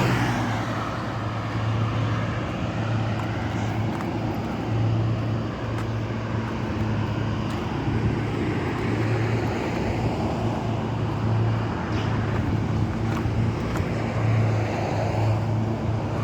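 Road traffic on a highway passing close by: a steady rumble of tyres and engines, with one car going past loudly right at the start.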